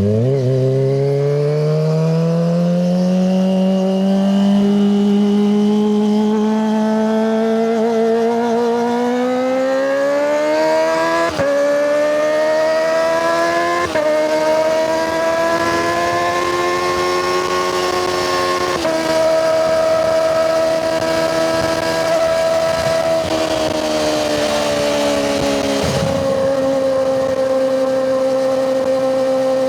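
Kawasaki ZX-25RR's 249 cc inline-four through a Yoshimura Hepta Force exhaust, pulling up through the revs. The pitch climbs steadily, breaks briefly about 11, 14 and 19 seconds in as the bike shifts up, then holds at a steady cruise.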